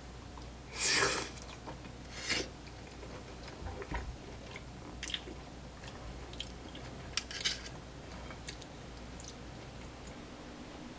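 A person biting and chewing food, with short, noisy crunching and mouth sounds. The loudest burst comes about a second in, and smaller ones follow at irregular moments.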